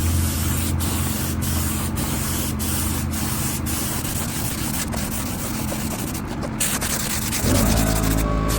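Paint spray gun hissing steadily as it lays on a coat of 4:1 clear coat. About seven seconds in, the low background changes and a few steady tones come in under the hiss.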